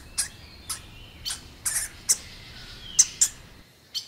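Hamster squeaking: a series of short, high squeaks, about one every half second.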